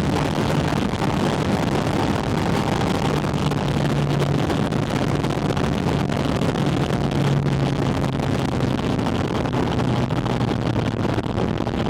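Porsche 718 Spyder RS's naturally aspirated flat-six engine running at steady cruising revs, heard through a microphone mounted on the air intake, under a heavy rush of wind noise.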